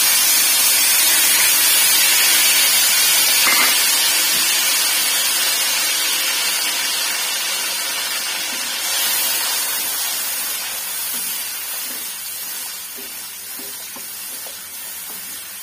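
Ground tomato purée sizzling in hot oil in a wok: a loud, steady hiss that slowly dies down as it cooks.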